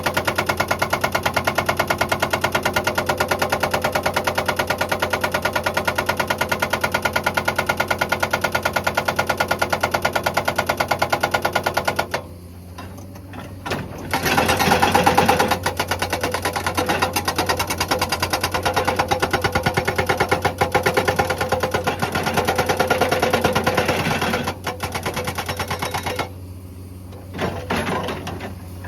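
Hydraulic rock breaker on a Komatsu excavator hammering rock in rapid, steady blows. It stops about twelve seconds in, starts again a couple of seconds later, and breaks off near the end with a few short bursts.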